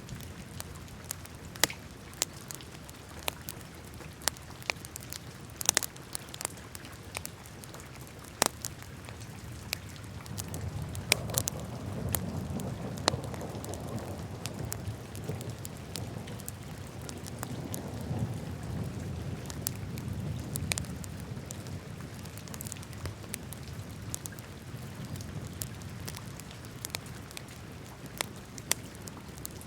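Wood fire burning in a fireplace: a steady hiss with frequent sharp crackles and pops. A louder low rush swells through the middle and then dies back.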